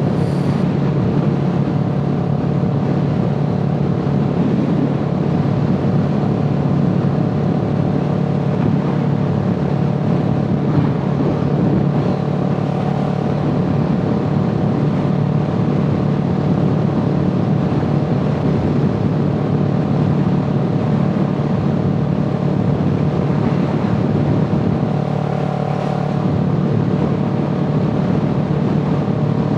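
A motor vehicle's engine running at a steady speed, giving a constant drone that holds nearly the same pitch throughout.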